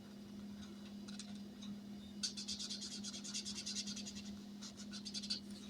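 Colouring in a square on a paper savings tracker, the pen scratching back and forth on the paper in quick strokes, several a second, from about two seconds in until just before the end. A faint steady hum runs underneath.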